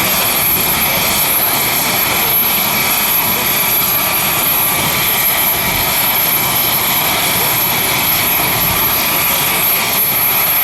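AW249 Fenice twin-turboshaft attack helicopter in flight: loud, steady engine and rotor noise with a high, steady turbine whine over it.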